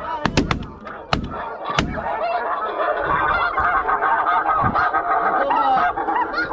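A few shotgun shots in the first two seconds, then a large flock of geese honking continuously overhead, many birds calling at once.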